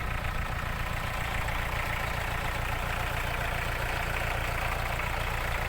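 ISEKI NT554 tractor's diesel engine running steadily.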